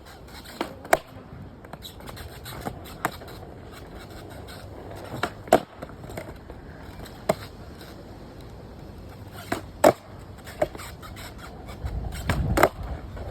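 Skateboard clacks and knocks from tail pops and landings of ollie attempts. About a dozen sharp hits come at uneven intervals over a steady low rumble, with a cluster of louder ones near the end.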